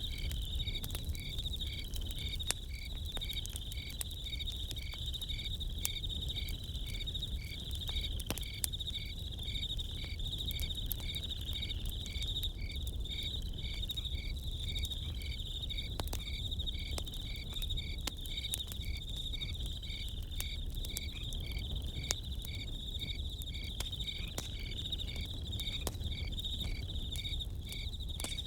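Crickets chirping steadily, with a second insect call pulsing about twice a second, over the scattered small crackles and pops of a campfire and a low rumble.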